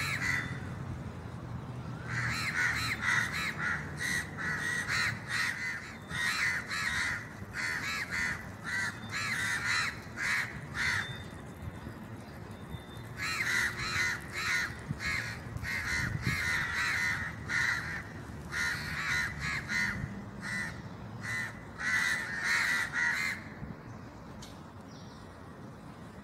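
Birds calling in long runs of rapid, harsh calls, pausing briefly midway and stopping near the end.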